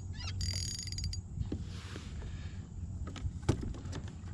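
Fishing reel being wound, a mechanical whirring and creaking in the first second, followed by scattered clicks and a sharp knock about three and a half seconds in.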